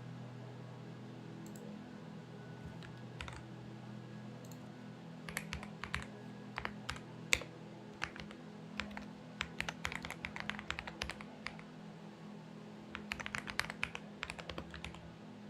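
Typing on a Xinmeng X98 mechanical keyboard: a few scattered key presses, then three quick runs of keystrokes, over a steady low hum.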